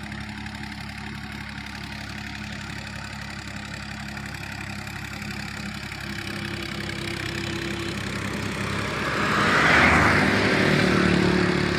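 Universal 533 tractor's diesel engine running steadily while puddling a flooded paddy field, growing louder about ten seconds in as it works closer, with a rougher, noisier sound at that point.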